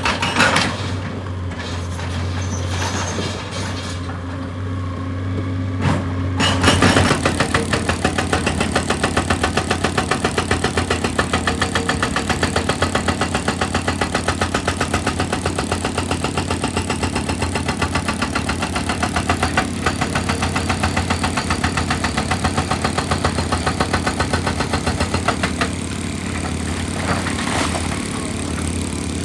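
Heavy machinery's diesel engine running steadily, with a rapid, even knocking from about seven seconds in.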